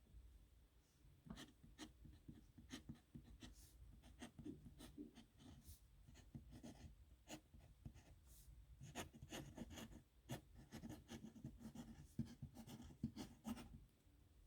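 A pen writing a signature on paper, faint: runs of quick scratchy strokes, beginning about a second in, with a brief lull around the middle.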